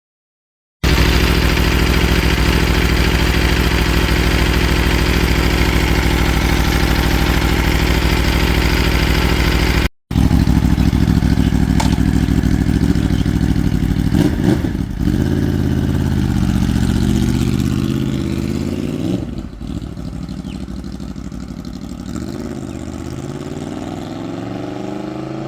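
Aprilia RSV4 V4 motorcycle engine running loud and steady for about nine seconds. After a brief cut it runs again, its pitch rising and falling a few times as the revs change, and it settles lower toward the end.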